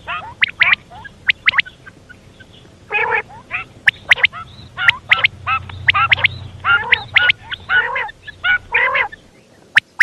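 Female common quail calling: an irregular run of short raspy notes mixed with sharp high chirps, over a faint low hum.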